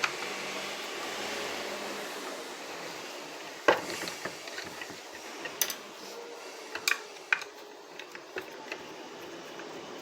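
Scattered clicks and knocks of a tool on the plastic housing and parts of an upright vacuum cleaner being taken apart, with a soft rushing noise for the first couple of seconds; the loudest is a sharp knock a little before halfway.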